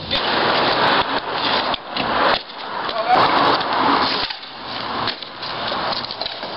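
Longboard wheels running over pavement: rough, grainy rolling noise in several long passes, with short breaks about two seconds and four and a half seconds in.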